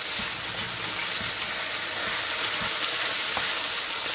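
Thinly sliced chicken breast sizzling steadily in hot oil in a wok, stirred with a wooden spoon, with a few faint knocks of the spoon against the pan.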